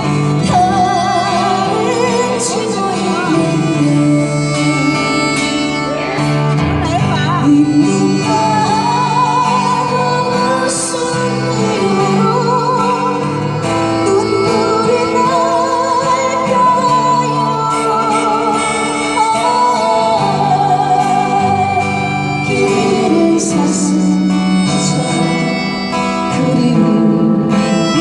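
A slow folk song played live on acoustic guitar, with a melody line held in long notes with vibrato.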